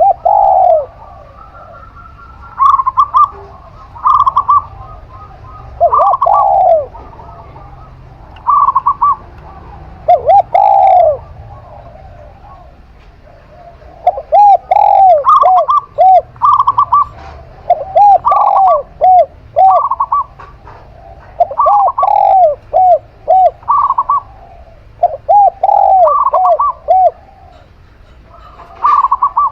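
A zebra dove and a spotted dove cooing back and forth, repeated short coo phrases from two voices, one higher and one lower. The lower bird often gives quick runs of three or four arched notes in the second half.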